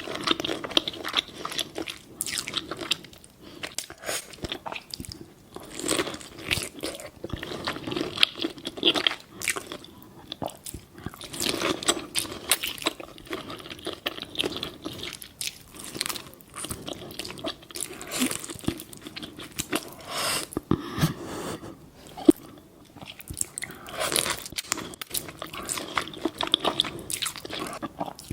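Close-miked eating of a seafood boil: irregular biting, crunching and wet chewing, with many sharp clicks throughout.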